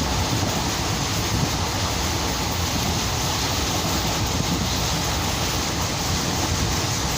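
Moving train running steadily, a constant rumble with rushing noise and no distinct clacks or horn.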